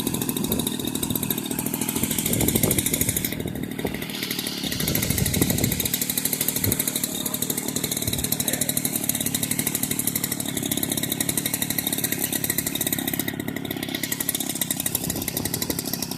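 28cc two-stroke grass-cutter engine of a homemade RC plane running steadily with a fast, buzzing exhaust note. The engine dips briefly twice, about three and a half seconds in and again near the end.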